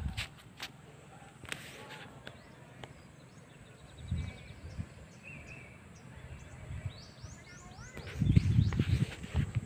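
Birds chirping over quiet open-air ambience: a short trill, a brief call about halfway, and a quick run of falling chirps near the end. Low rumbling bursts come once about four seconds in and again from about eight seconds in.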